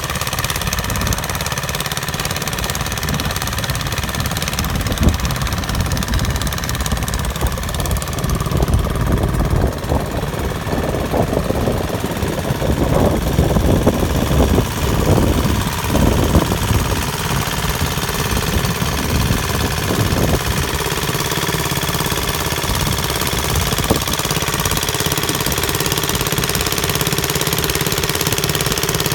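Custom-made mini tractor engine running steadily, growing louder and rougher for a few seconds around the middle before settling back.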